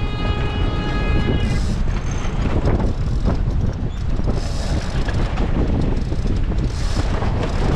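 Strong wind buffeting the microphone aboard a sailing yacht in rough water, a heavy low rumble, with a few bursts of hiss from water splashing against the boat. A steady high-pitched tone sounds for the first second and a half, then stops.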